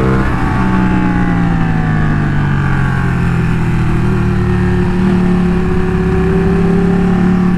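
Motorcycle engine pulling steadily while riding, its note dropping briefly at the start and then holding fairly even.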